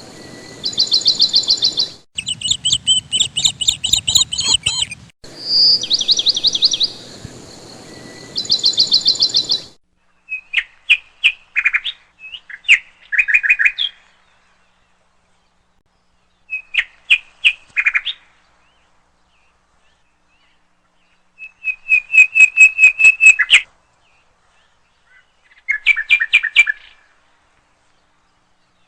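Bird chirping in fast trills. For the first ten seconds the trills are high and come back to back with abrupt cuts; after that come short bursts of rapid chirps separated by silent pauses.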